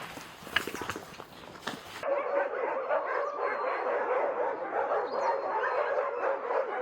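Several dogs barking and yelping over one another in a dense, continuous din that starts abruptly about two seconds in. Before that there are scattered light ticks and steps.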